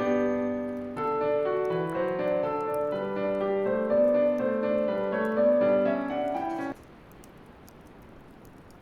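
Solo piano playing a gentle Christmas song, which stops about three-quarters of the way through. After it, only the faint crackle and hiss of a bonfire is left.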